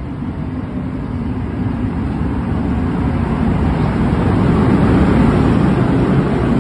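New Jersey Transit commuter train, a locomotive with bilevel coaches, rolling backward past the platform after overrunning its stop. A steady rumble of wheels and running gear grows louder as the locomotive draws level, loudest about five seconds in.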